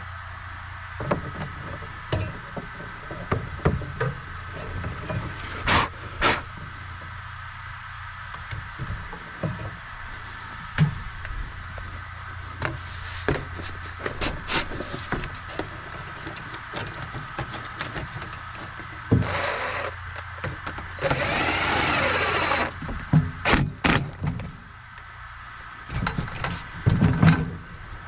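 Scattered knocks, clicks and clatter of feed-line hardware being handled and fitted, likely plastic feed hoppers going onto the feeder pans, over a steady low hum. Roughly three quarters of the way through there is a longer rasping noise lasting about two seconds.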